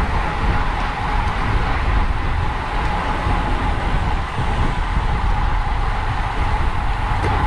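Steady wind rushing and buffeting over the microphone of a camera on a racing bicycle at speed, with a deep rumble underneath.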